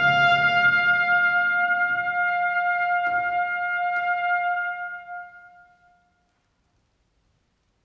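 Trumpet holding one long note that dies away about five seconds in, with two soft timpani strokes beneath it around three and four seconds in.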